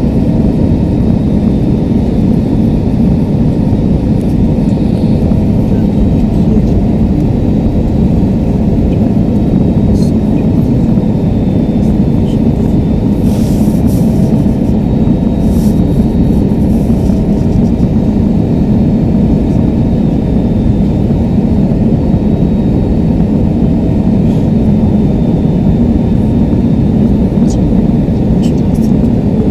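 Steady, loud roar of jet engines and airflow heard inside an airliner cabin in flight.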